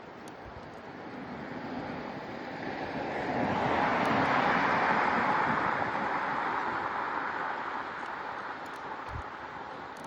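A road vehicle passing the bicycle: tyre and engine noise swells over a few seconds, is loudest about halfway through, then fades away, over steady wind noise.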